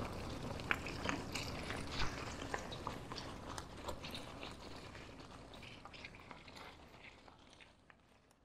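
Outdoor ambience with many scattered small clicks and crackles over a low hiss, fading out gradually to silence near the end.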